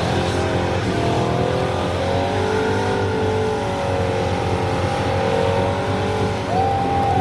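A car engine held at high revs during a burnout, its pitch wavering and then climbing higher near the end.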